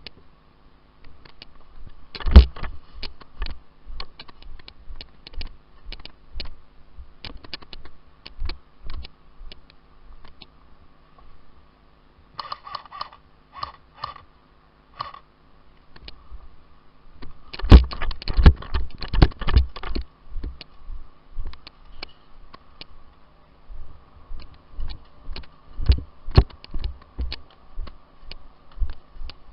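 Irregular sharp clicks and knocks in runs, densest around two seconds in, in the middle and towards the end, over a faint steady hum.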